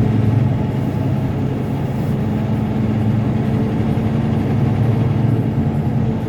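Diesel engine of a semi-truck running steadily while driving, a constant low drone heard from inside the cab.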